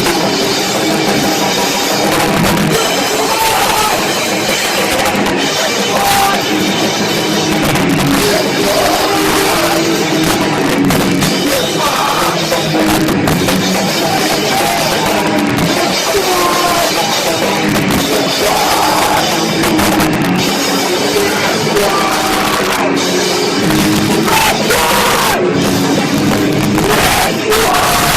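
A loud live rock band playing drums and distorted guitars, with the recording overloaded so the sound comes out harsh and crushed.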